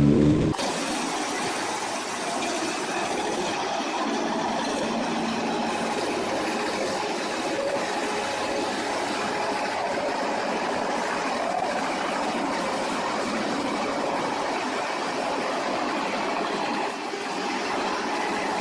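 Wood chipper running steadily: a continuous, even mechanical noise without pauses, following an abrupt change in sound about half a second in.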